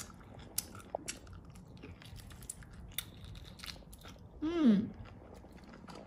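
Close-up chewing of a rubbery boiled octopus leg: small wet clicks and smacks of the mouth. About four and a half seconds in there is a short hummed "mm" of enjoyment.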